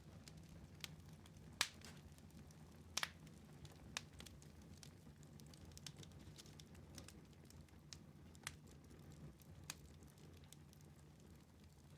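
Wood fire in a fireplace crackling faintly: scattered sharp pops every second or two, a quick double pop about three seconds in, over a faint low rumble.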